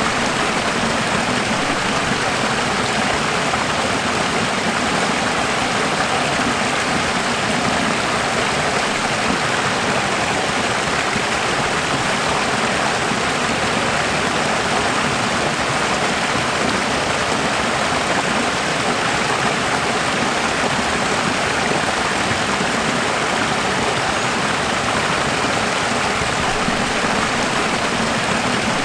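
Running water making a steady, even rushing noise that does not change.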